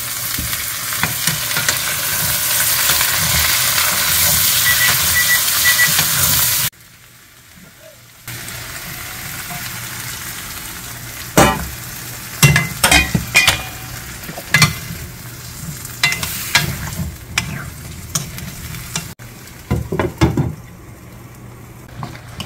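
Sliced round zucchini and onion sizzling as they are stir-fried in a nonstick frying pan. The loud sizzle cuts off suddenly about a third of the way in. After a short lull a quieter sizzle returns, with a wooden spoon knocking and scraping against the pan as it stirs.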